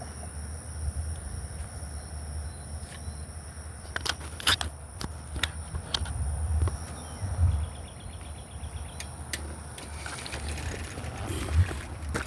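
Wind buffeting the microphone during a bicycle ride, a steady low rumble, with a few sharp clicks and knocks scattered through it.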